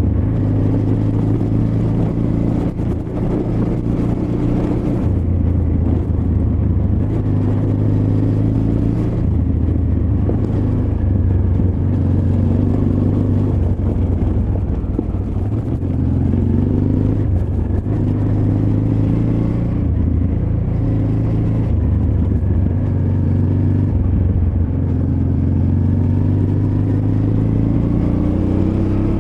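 Honda Transalp XL600V's V-twin engine running under constantly changing throttle off-road, its pitch rising and dropping back every few seconds.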